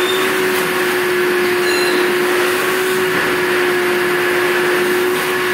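Vacuum cleaner running at a steady pitch with an even rush of air, vacuuming out the bottom tray of a bird cage.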